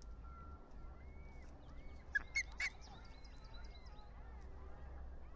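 Outdoor birds calling: many faint, arching chirps throughout, with three short, sharp calls close together about two seconds in. A steady low rumble runs underneath.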